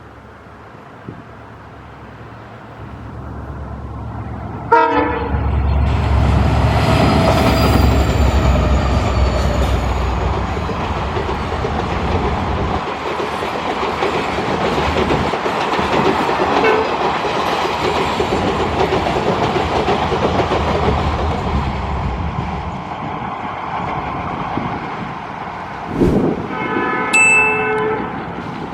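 Indian Railways diesel locomotive-hauled express train approaching and passing close by. It sounds a short horn blast about five seconds in, its engine rumbles loudly as it goes by, and the coaches follow with wheel clatter. A second horn blast comes near the end.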